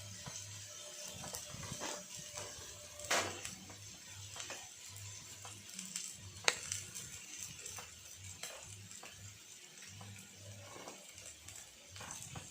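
Pork slices sizzling and crackling on an electric grill pan at high heat, with scattered spits of fat and two sharper pops about three and six and a half seconds in. A low hum pulses about twice a second underneath.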